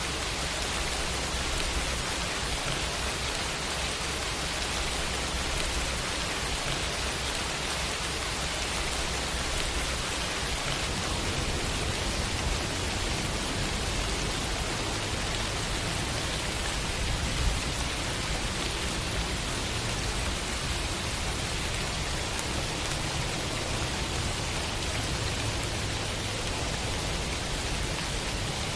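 Steady heavy rain falling and pattering on surfaces, an even hiss with a low rumble underneath. One brief louder tap stands out a little past halfway.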